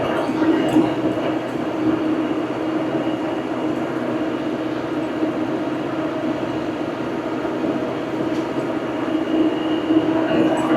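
Old farm tractor's engine running steadily at a constant pitch while pulling a bush hog rotary mower.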